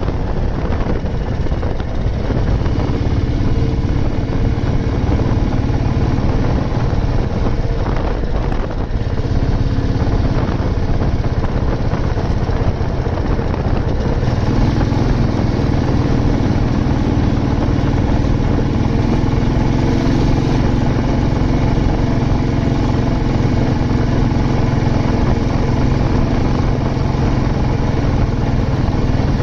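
Old Royal Enfield Bullet 350's single-cylinder four-stroke engine running steadily while the motorcycle is ridden, growing somewhat fuller from about halfway through.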